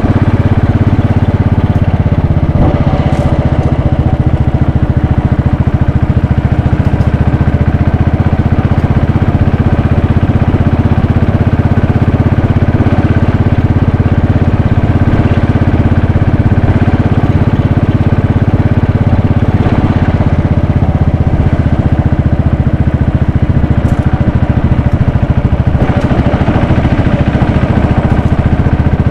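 Royal Enfield Bullet 500's single-cylinder engine running steadily, with a fast, even pulse.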